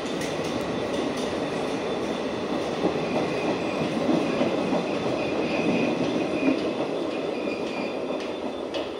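Indian Railways passenger coaches rolling past a station platform: a steady rumble of wheels on the rails, with a faint high wheel squeal in the middle. The sound eases off near the end as the last vehicle pulls away.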